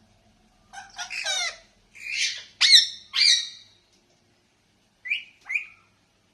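Pet parakeet calling: a quick run of loud, sliding squawks and chirps, then two short calls about five seconds in.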